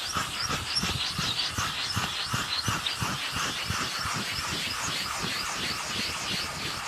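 Hand scrubber rubbing back and forth on a damp polished granite gravestone in quick, even strokes, working off white flecks of paint and dirt from the stone's background.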